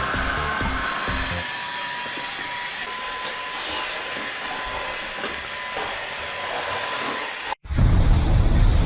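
Orfeld cordless stick vacuum running steadily, a hiss of air with a thin high whine, under background music that drops out about a second and a half in. Near the end it cuts off abruptly and a loud low rumble takes over.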